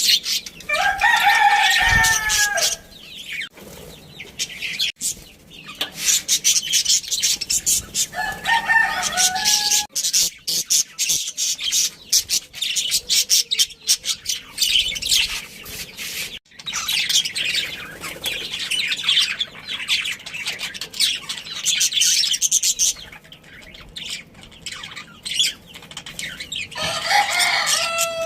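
Budgerigars chattering and warbling continuously. Three louder, drawn-out pitched calls come in: one about a second in, one about eight seconds in, and one near the end.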